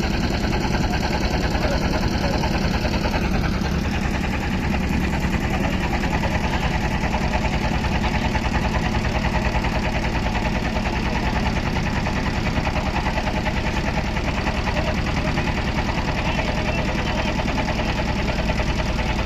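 A motor boat's engine running steadily, with a rapid, even chugging.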